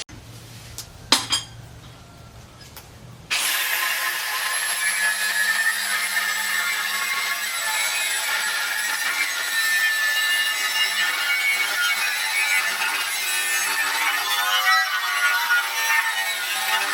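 A few light knocks, then about three seconds in an electric power tool starts suddenly and runs steadily with a high whine, working the steel of a tractor's disc plough.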